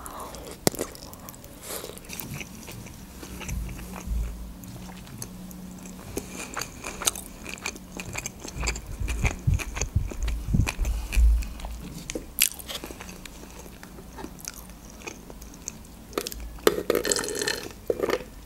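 Close-miked eating sounds of sushi rolls topped with slippery chuka seaweed salad: a bite, then chewing with wet mouth clicks. Near the end, a drink sipped through a straw.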